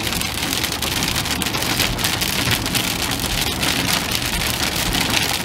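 Rain pelting a moving car's roof and windows, a dense patter of drop hits over a steady low road rumble.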